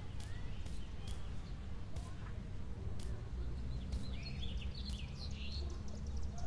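Outdoor ambience: a steady low rumble with short clicks about once a second, and a few bird chirps about four seconds in.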